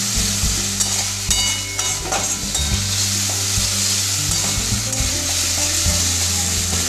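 Onions, tomatoes and ginger-garlic paste sizzling steadily in a metal kadai while a metal spatula stirs and scrapes against the pan, with a few ringing clinks of the spatula on the pan between about one and two seconds in.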